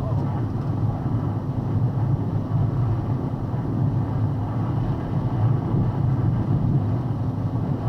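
Steady low rumble of a vehicle driving, heard from inside the cab, with wind noise over it.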